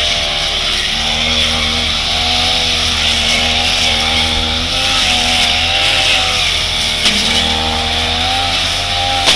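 Brush cutter fitted with a metal blade running at full throttle, its engine pitch wavering slightly as it cuts through thick grass, with a couple of sharp clicks near the end.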